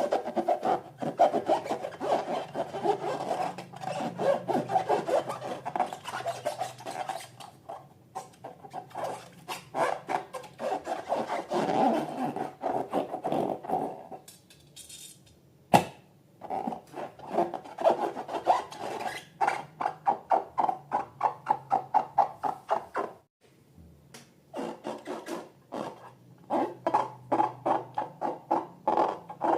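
Slime and balloons being handled by hand: rapid rubbing strokes, several a second, in long runs broken by two short pauses, with a single sharp click about halfway through.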